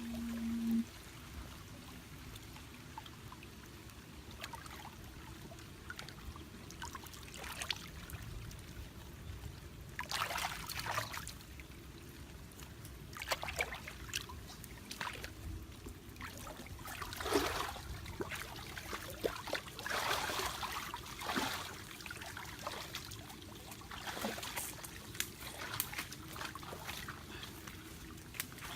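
Water trickling and splashing in irregular bursts, busier in the second half. A brief low hum sounds at the very start.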